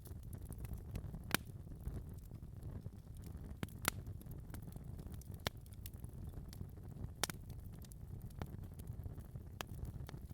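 Fire in a fireplace crackling, with a steady low rumble and irregular sharp pops, about half a dozen louder ones among many faint ticks.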